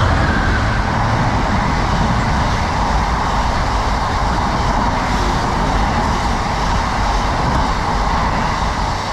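A train passing at speed: a loud, steady rush of wheel and air noise with a low rumble, which the onlooker calls super fast.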